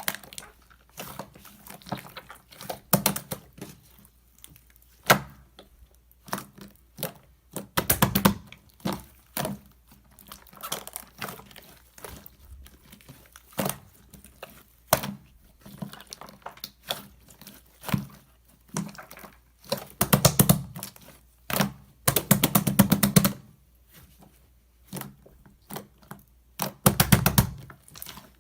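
Hands kneading and folding clay-mixed slime: sticky squishing broken by sharp clicks and pops of trapped air, with several runs of rapid crackling pops, the longest about two-thirds of the way in.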